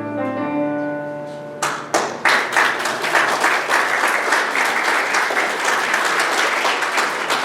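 A final piano chord rings and fades, then audience applause breaks out about a second and a half in and keeps going.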